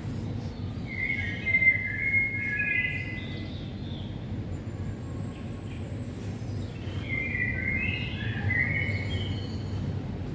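Birds calling: two phrases of high chirping notes, one about a second in and another about seven seconds in, over a steady low background rumble.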